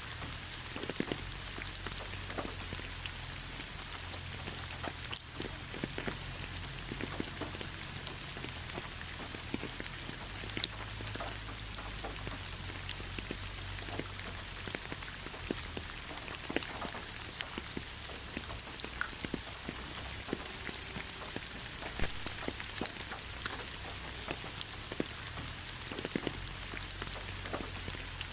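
Steady rain falling, an even hiss with many scattered drops pattering and dripping close by, over a low rumble.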